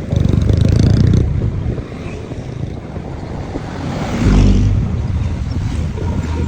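Wind rushing over the microphone on a moving vehicle, mixed with road and engine noise, with a heavier low gust buffeting the microphone about four seconds in.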